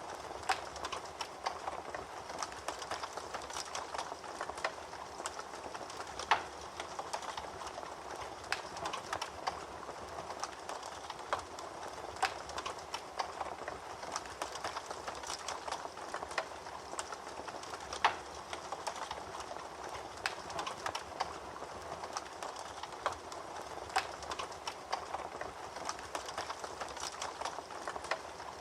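Fire crackling in a fireplace: a steady hiss with irregular snaps and pops, a few of them louder.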